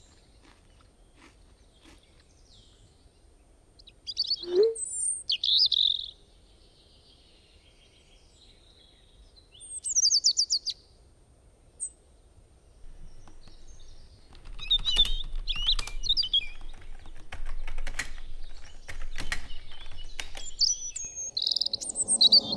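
Birds chirping in scattered short calls. About halfway through, a run of quick laptop keyboard clicks starts.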